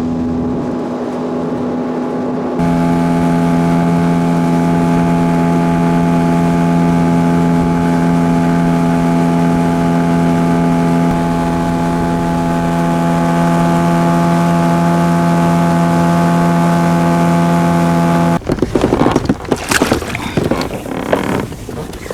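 18-horsepower two-stroke outboard motor running at a steady speed on a small inflatable boat. Its note steps up and gets louder about two and a half seconds in, holds steady, then cuts off suddenly near the end, giving way to rough, irregular noise.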